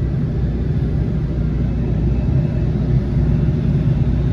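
Steady low rumble of a MARC commuter train in motion, heard from inside the passenger car.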